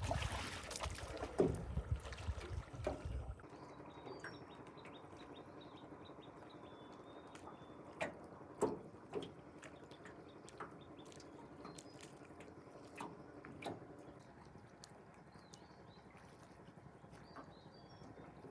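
Water splashing and sloshing loudly for about three seconds, then an abrupt change to a quieter background with scattered sharp knocks and faint, short, high chirps.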